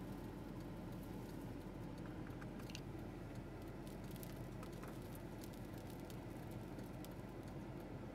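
Light rain pattering on a car's roof and windshield, scattered irregular ticks over a steady low hum inside the cabin.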